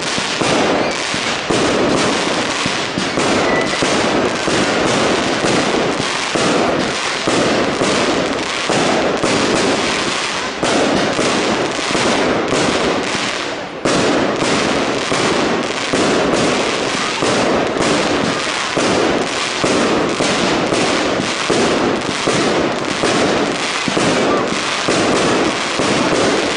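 Professional fireworks display: a continuous, rapid barrage of aerial shell bursts and crackle, with a brief dip a little past halfway.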